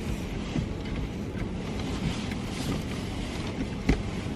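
Car idling, a steady low rumble heard from inside the cabin, with one short knock near the end.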